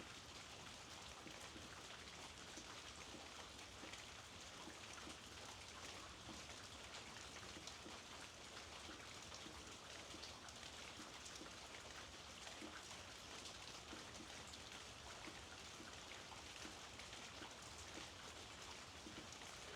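Faint, steady rain, with many small drops ticking on surfaces.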